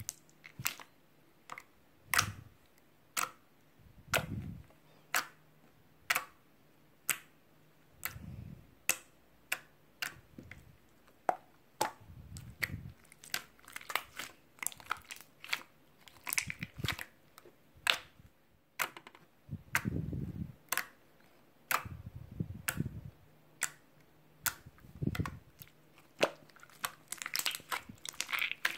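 Crunchy chewing and biting: sharp crunching clicks about once a second, with soft low thuds between some of them.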